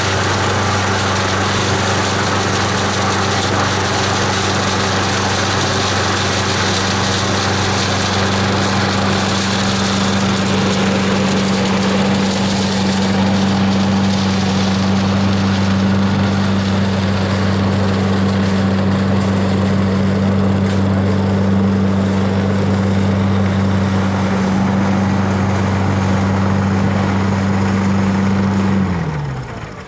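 Parker Scavenger SV89301CSP garden vacuum's engine running steadily with a steady hum. Near the end it is switched off: the pitch slides down and the sound dies away.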